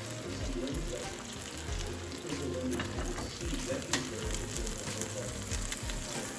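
Hamburger patties frying in oil in a pan, a steady sizzle with a few sharp pops, the loudest about four seconds in.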